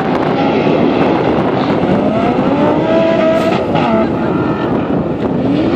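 Sports car engines revving hard, their pitch rising and falling in long sweeps over steady engine and road noise.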